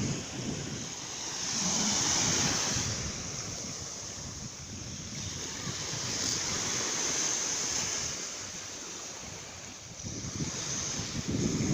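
Sea waves washing ashore, the surge swelling about two seconds in and again around six seconds, with wind buffeting the microphone near the end.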